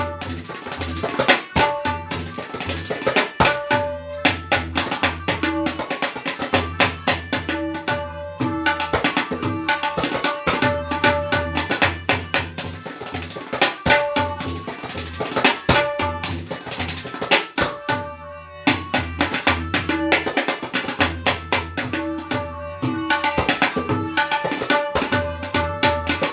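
Tabla solo in teentaal: fast, dense strokes on the right-hand drum mixed with deep booming strokes of the left-hand bass drum, in a steady rhythmic flow with a brief lull about two-thirds of the way in.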